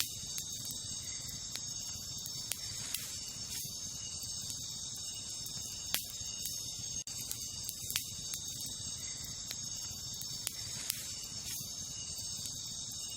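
Wood campfire crackling, with scattered sharp pops, two of them louder about halfway through and near two-thirds of the way, over a steady high chorus of night insects.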